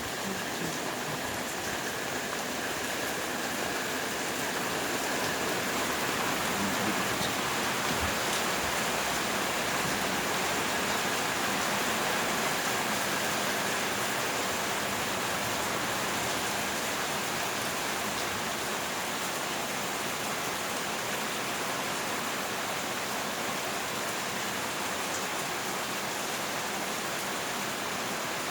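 Heavy rain falling steadily, an even hiss of rain with no thunder in it.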